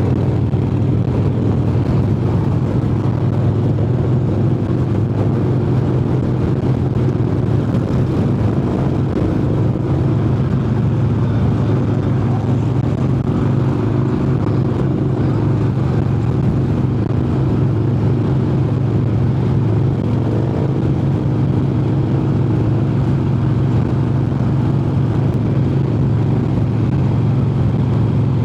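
Harley-Davidson Heritage Softail's V-twin engine running steadily under way at a constant cruising speed.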